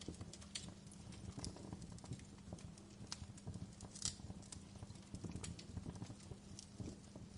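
Fireplace crackling: irregular sharp pops and snaps of uneven strength, one louder pop about four seconds in, over a low steady hum.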